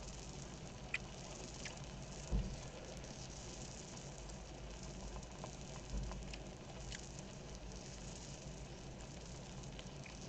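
Pork belly sizzling on a grill pan: a steady fatty hiss dotted with small crackling pops of spattering grease. A couple of dull low thumps fall about two and a half and six seconds in.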